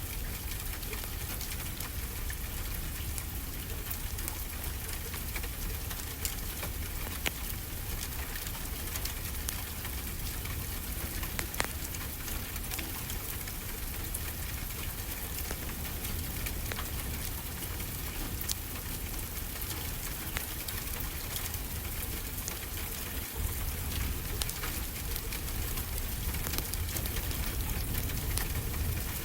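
Steady rain falling, with scattered sharp crackles from a wood fire and a low rumble underneath.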